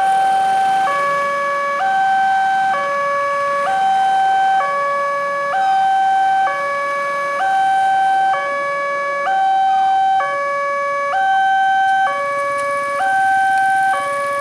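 Railway level crossing warning alarm sounding an electronic two-tone call, a higher and a lower tone alternating about once a second, signalling that a train is approaching the crossing.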